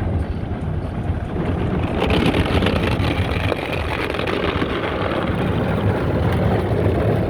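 Automatic car wash running over the car, heard from inside the cabin: a steady rumbling wash of water and machinery that grows louder and hissier about two seconds in.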